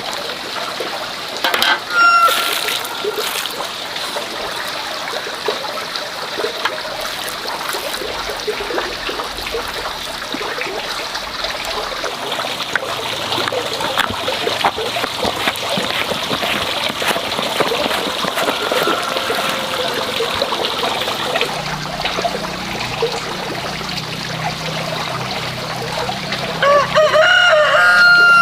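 Water running and trickling steadily, with a rooster calling briefly about 2 s in and crowing loudly near the end.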